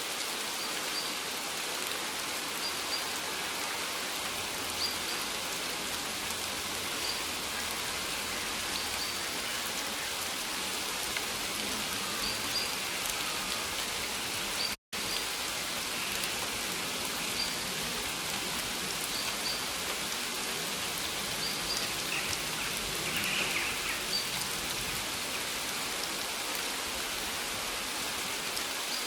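Steady rain falling, an even hiss of many drops, with faint short high chirps now and then. The sound cuts out completely for a split second about halfway through.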